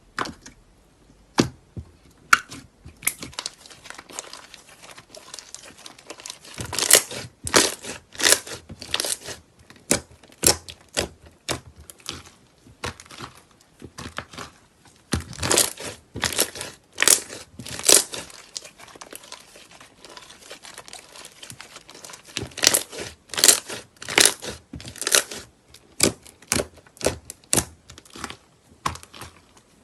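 Slime being worked by hand, giving irregular runs of sharp crackling pops, bunched in clusters with short quieter lulls between them.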